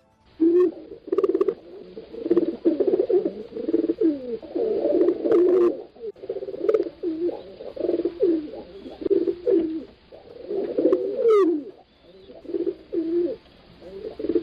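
Pigeons cooing over and over in low, rolling phrases, several calls overlapping at times, with a short high rising chirp about eleven seconds in.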